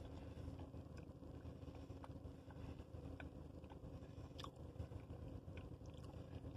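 A person chewing a mouthful of chocolate-coated cake donut with the mouth closed: faint soft mouth clicks and smacks about once a second, the sharpest about four and a half seconds in. A steady low hum runs underneath.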